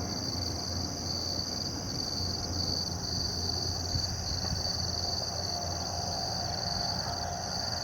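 Insects droning in one steady, unbroken high-pitched band, with a low steady hum beneath.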